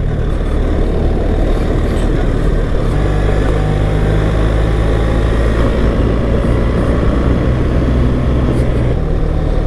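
BMW R 1300 GS motorcycle's boxer-twin engine running steadily while riding, with wind and tyre noise on a muddy dirt track.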